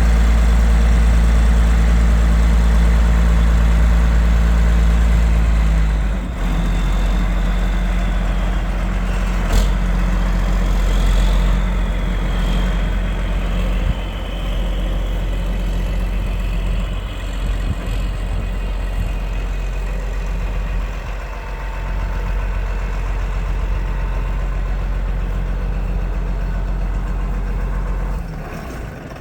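John Deere 9520 4WD tractor's diesel engine idling. About six seconds in, the engine note drops lower and quieter, and near the end the sound fades out.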